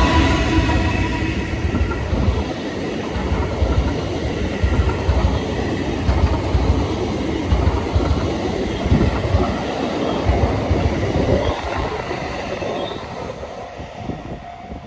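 A train passing close by, its wheels rumbling and clacking over the rails, the sound dying away over the last couple of seconds.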